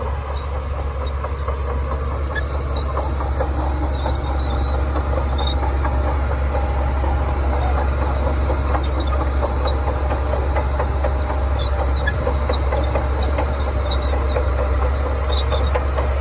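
Shantui DH17C2 crawler bulldozer's diesel engine running steadily, with a dense rattle from its steel tracks, growing a little louder over the first few seconds.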